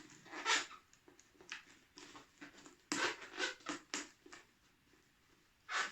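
Fingers pressing and rubbing plasticine into the base of a cut-down plastic bottle, making irregular crinkles and scrapes of thin plastic. The sounds come in a quick cluster about three to four seconds in.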